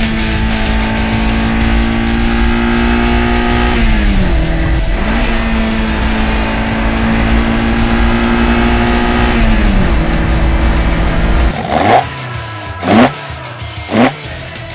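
Toyota AE86 Sprinter Trueno engine held steady at high revs, dropping off twice as the throttle is released, then blipped sharply four times, about once a second, near the end.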